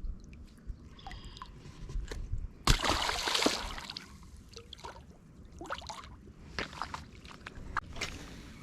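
Shallow river water splashing and sloshing at the bank, with one loud splash about three seconds in lasting under a second, among scattered small drips and clicks.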